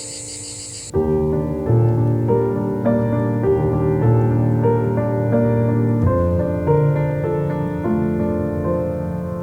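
Background piano music, slow notes and chords. For about the first second a shrill insect chorus, cicadas, plays under soft music, then cuts off abruptly as the piano comes in louder.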